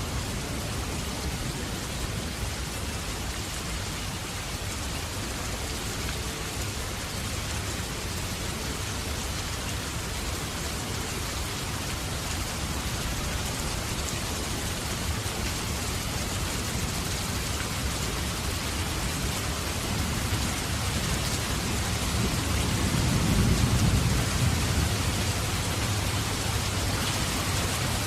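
Heavy rain falling steadily, with a low roll of thunder swelling about three quarters of the way through.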